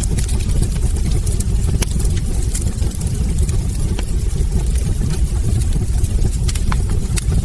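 Wood fire burning in a fireplace: a steady low rumble of the flames with frequent sharp crackles and pops from the burning logs, scattered irregularly throughout.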